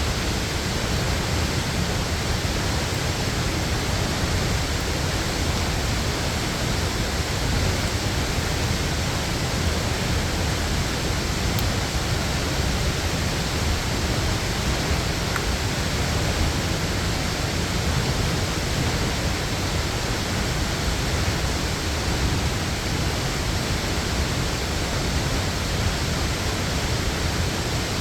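Waterfall pouring steadily: a constant rushing noise with a heavy low rumble underneath.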